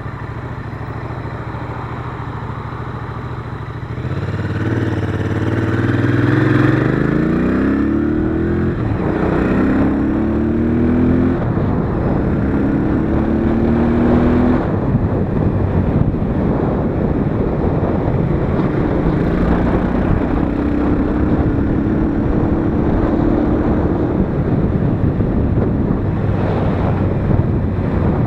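Royal Enfield Interceptor 650's 648 cc parallel-twin engine pulling under acceleration, rising in pitch through a gear change about four seconds in, then settling to a steady cruise. From about halfway, wind rush over the microphone largely covers the engine.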